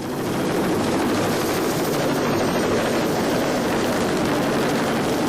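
Helicopter noise, a loud steady rush of rotor and engine sound.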